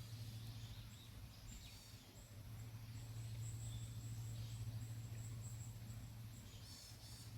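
Outdoor ambience: birds calling, with a high chirping repeated several times a second through the middle, over a steady low rumble.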